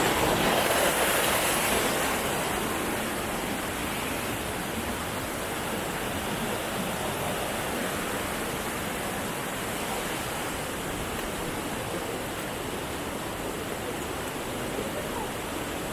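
Waterfall: a steady rush of falling water, a little louder for the first two seconds and then even.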